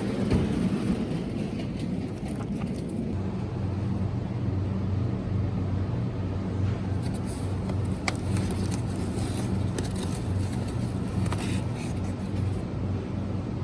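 A steady low rumble with an even hum, like a vehicle running, and a few faint clicks.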